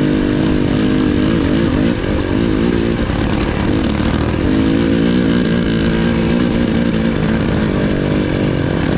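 KTM 300 XC-W two-stroke dirt bike engine running on the trail, its pitch rising and falling as the throttle is worked. The revs drop about two seconds in and pick up again around the middle.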